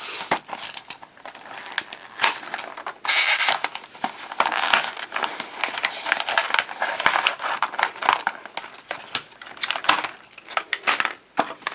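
Plastic packaging crinkling and crackling, with many sharp clicks and scrapes, as a diecast model car is unpacked by hand. The densest crackling comes about three to five seconds in.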